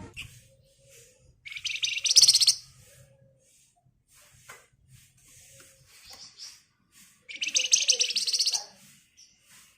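Flamboyan (wergan Jawa) singing in its rapid rattling "ngebren" trill. There are two loud dense bursts, one about one and a half seconds in and one about seven seconds in, each lasting about a second, with faint short calls between them.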